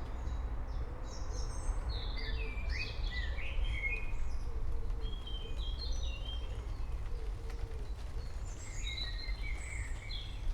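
Several birds chirping in short bursts of song, in clusters, over a steady low rumbling background noise.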